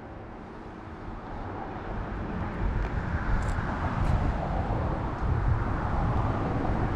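Road traffic on the bridge overhead: a steady hiss of tyres on pavement that grows gradually louder over several seconds.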